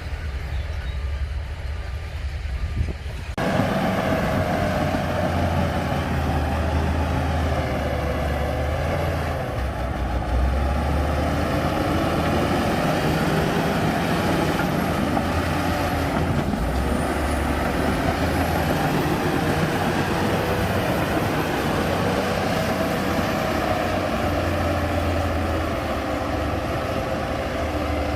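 Heavy diesel earthmoving machinery running hard under load, the engine pitch wandering up and down. The sound jumps suddenly louder about three seconds in.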